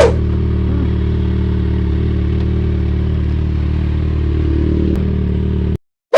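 Kawasaki Z1000R's inline-four engine idling steadily, with a sharp click at the start. The sound cuts off abruptly near the end.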